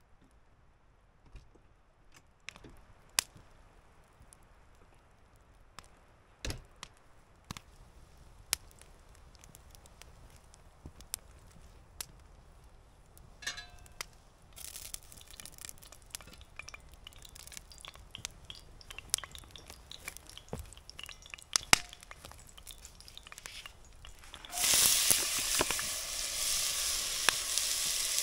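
Scattered clicks and crackles, then food in a cast iron pan begins sizzling loudly and suddenly about 24 seconds in.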